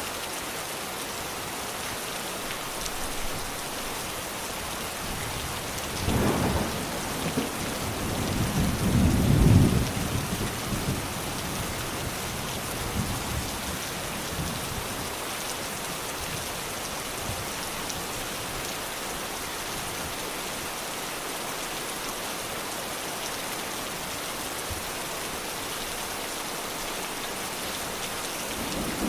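Steady rain falling, with rolls of thunder rumbling beneath it about six seconds in and again, loudest, around nine to ten seconds; another rumble begins near the end.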